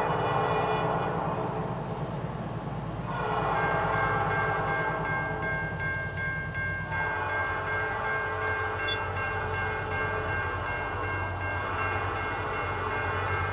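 Diesel freight train passing with its lead locomotive's air horn sounding: two long blasts, one stopping about three seconds in and a second from about three and a half to seven seconds, then quieter horn tones, over the steady low rumble of the diesel engines.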